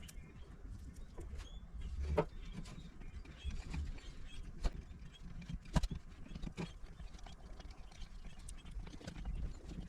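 Scattered light clicks and knocks over a low rumble, with sharper knocks about two seconds in and again near six seconds.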